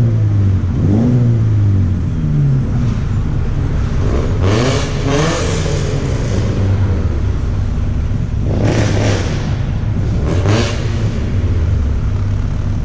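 A car engine revved hard over and over, its pitch climbing and dropping, with several louder, rasping surges.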